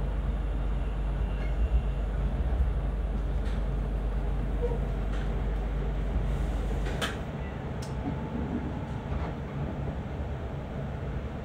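Train running along the line, heard from inside the passenger car: a steady rumble with a few sharp clicks. The deep part of the rumble eases about seven seconds in.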